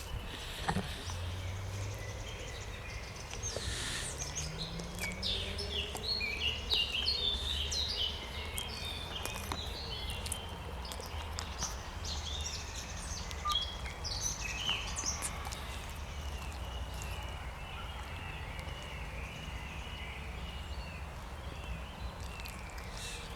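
Wild songbirds singing in spring, a burst of quick, high chirping notes followed by a steadier run of repeated twittering notes, over a steady low rumble.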